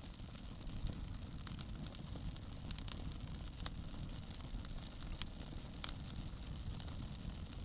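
Wood bonfire crackling, with scattered sharp pops at irregular intervals over a steady low rumble.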